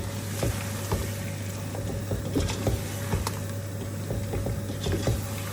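Spoon stirring chicken and biryani masala in a cooking pan: irregular taps and scrapes of the spoon against the pan over a steady low hum.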